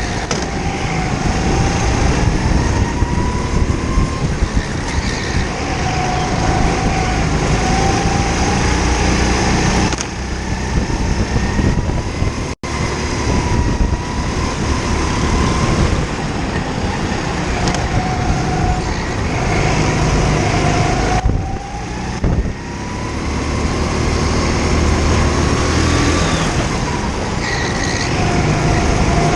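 Kart engine running hard, heard from the kart itself: its pitch climbs and falls again and again as the throttle is opened on the straights and eased for the corners. The sound drops out briefly about halfway through.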